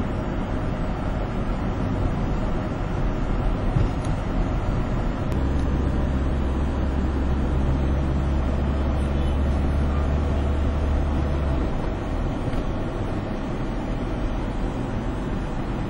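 Continuous highway traffic noise: engine and tyre rumble of heavy trucks and other vehicles on the move. A deep, steady engine drone rises over it for about six seconds in the middle, then fades back into the general rumble.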